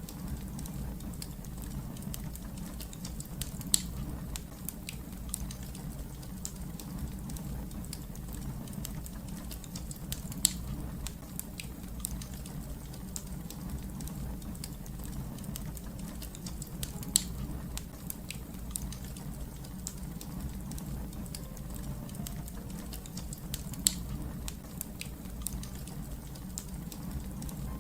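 Fire crackling: many small sharp crackles over a steady low rumble, with a louder pop four times at about seven-second intervals.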